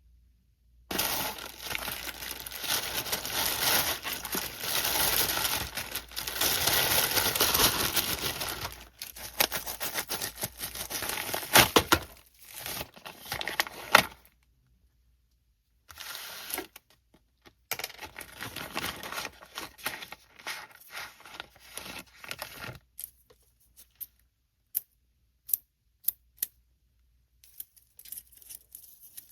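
Packaging being torn open and crinkled by hand in two long stretches, followed by a few sharp separate clicks near the end.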